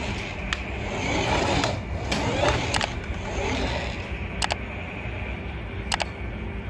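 Remote-control toy fire truck's small electric drive motor and plastic gears whirring steadily, with five sharp clicks scattered through it.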